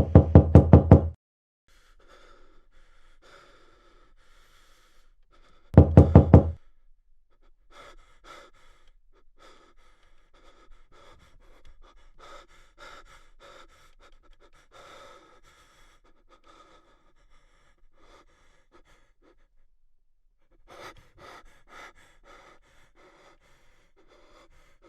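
Two bursts of rapid, loud knocking, about seven quick knocks each, like fists on a door; the second burst comes about six seconds after the first. Faint irregular sounds follow.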